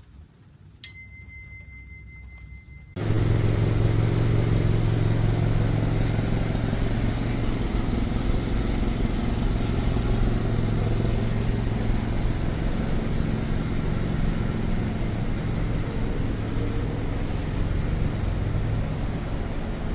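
A high-pitched tone sounds for about two seconds, then about three seconds in the 1991 Subaru Sambar truck's 660 cc four-cylinder engine starts suddenly and runs at a steady idle.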